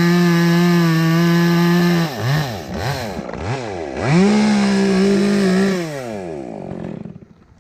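Chainsaw engine running at steady high revs, then blipped up and down three times, held at high revs again, and finally winding down and going quiet near the end.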